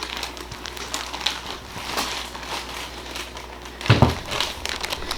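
Plastic bag crinkling and rustling as it is handled, with a low thump near the end.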